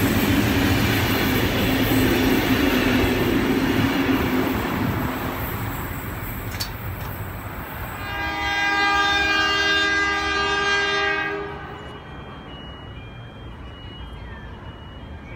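Heritage passenger carriages rolling past on the track, their wheel and rail noise fading away over the first several seconds. About eight seconds in, a 44 class diesel-electric locomotive sounds its multi-tone horn, one steady chord lasting about three and a half seconds, followed by faint bird chirps.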